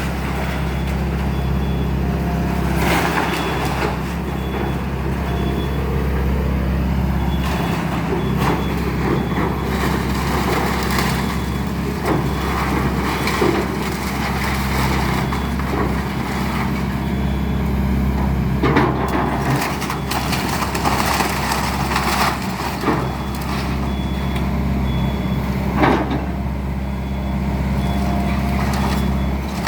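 Excavator's diesel engine running steadily under load while it tears down a house, with intermittent crunches and cracks of breaking wood and debris.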